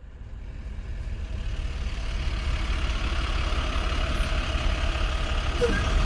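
A steady motor-vehicle engine rumble with heavy low end, fading in over the first two seconds and then holding steady.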